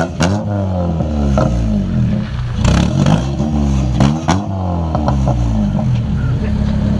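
A four-cylinder car engine revved repeatedly in quick blips, its pitch sweeping up and falling back each time, with sharp cracks at several of the peaks. It then settles to a steady idle for the last couple of seconds.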